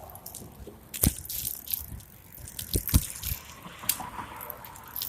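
Bicycle rattling and jolting over a rough surface, with irregular clicks and a few sharp knocks, the loudest about a second in and just before and at the three-second mark.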